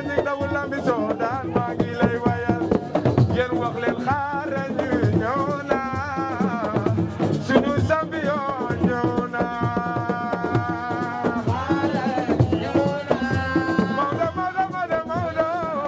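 Drumming with voices singing over it: a lively song carried by repeated drum strikes.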